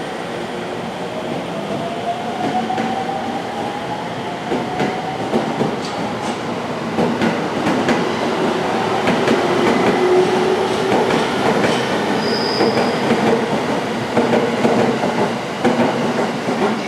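JR E231-series electric train pulling away and gathering speed: its traction motors whine, rising in pitch over the first few seconds. Wheel clicks over the rail joints then grow more frequent, with a brief high squeal about twelve seconds in.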